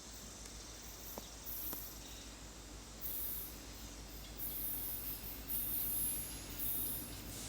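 Insects chirping in very high-pitched bursts of about half a second to a second each, repeating every second or so, over a faint steady low rumble.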